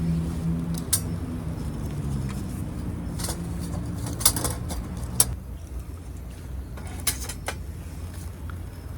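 Small wood fire crackling in a FIREBOX camp stove, with a handful of sharp, separate pops over a low steady hum that fades out about halfway through.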